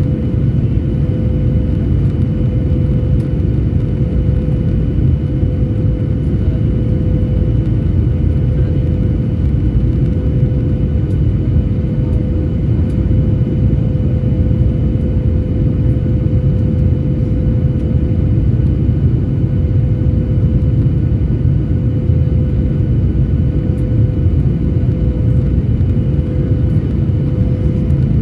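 Jet airliner cabin noise: a steady, loud low rumble of engines and airflow with a constant mid-pitched hum over it, unchanging throughout.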